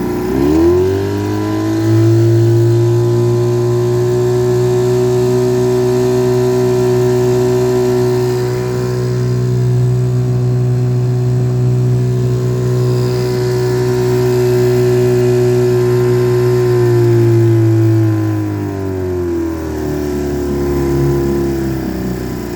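Johnson TN-26 5 hp two-cylinder two-stroke outboard throttled up from idle to speed in about two seconds, held running steadily at speed, then throttled back down to idle near the end.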